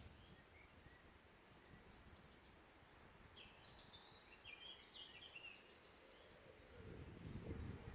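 Faint forest birdsong: a small songbird gives a burst of quick, high chirping notes in the middle, with other distant calls around it. Near the end a low rumble rises, like wind on the microphone.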